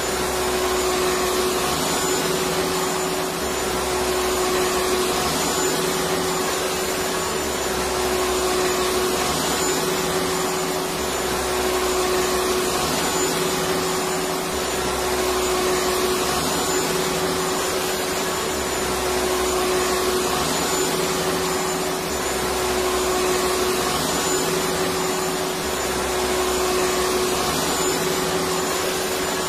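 Electric vacuum cleaner running continuously, a steady rushing noise with a constant motor hum. The low rumble underneath swells and fades every few seconds.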